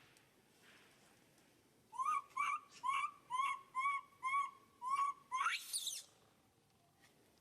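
An animal call: about eight short whistled notes, evenly spaced at roughly two a second, ending in a quick rising squeal.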